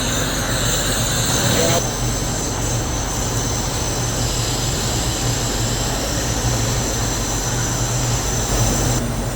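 Steady running of factory machinery: continuous mechanical noise over a low hum, with abrupt shifts in tone about two seconds in and near the end.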